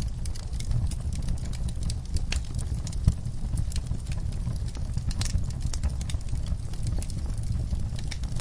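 Wood fire burning in a fireplace: a steady low rumble with scattered crackles and pops, one sharper pop about three seconds in.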